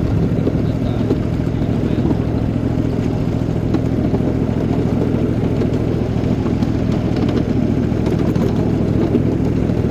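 A small engine running steadily at an even pitch, the locomotive of a ride-on miniature railroad train.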